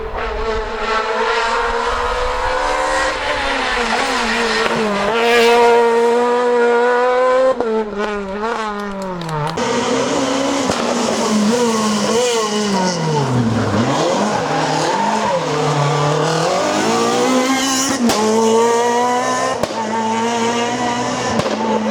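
Renault Clio R3 rally car's naturally aspirated four-cylinder engine at full throttle, its pitch climbing hard and dropping with each gear change. About halfway through the revs fall deeply, as if braking into a corner, then climb again. There are a few abrupt cuts between passes.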